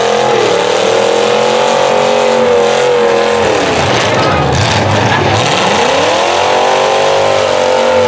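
Demolition derby car engines running hard under load, the main engine's pitch sinking about three and a half seconds in and climbing back up about two seconds later.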